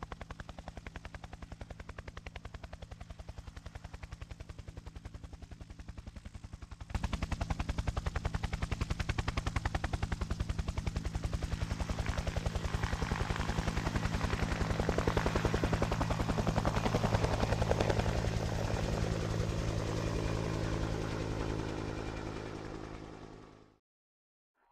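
UH-1 Huey helicopter in flight: rapid, even rotor chop over a steady engine and transmission hum. An edit about seven seconds in makes it suddenly louder, and it fades out near the end.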